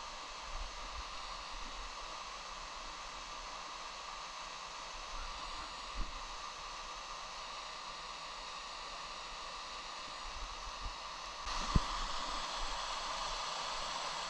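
Steady rush of a waterfall pouring into a mountain stream, growing louder about eleven and a half seconds in. There is a couple of short, dull knocks, one about six seconds in and one near twelve seconds.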